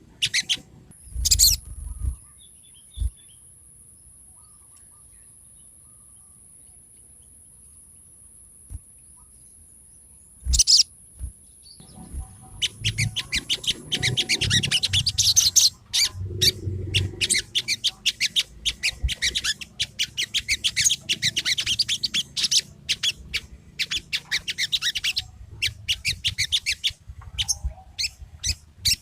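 Sogon songbird chirping in fast, high, twittering bursts, the lure song played to get a sogon that is reluctant to sing to answer. After a few sharp calls and a quiet stretch with a thin steady high whistle, the chirping picks up about twelve seconds in and runs on in rapid, closely packed phrases.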